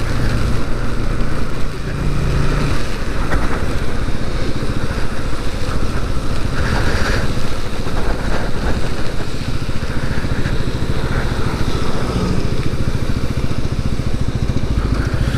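Motorcycle engine running steadily as the bike is ridden, with a constant rush of wind noise over it. The bike is a Bajaj Pulsar NS200, a single-cylinder 200 cc machine.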